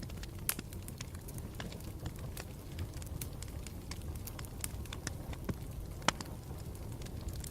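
Campfire burning with a steady low rumble and irregular sharp crackles and pops of burning wood, the loudest pop about six seconds in.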